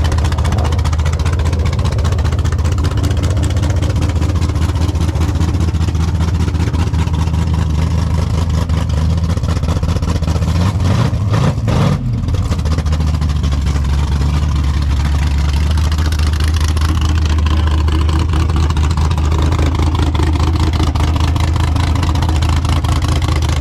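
Car engine idling through its exhaust with a steady low note, blipped once in a quick rev about halfway through.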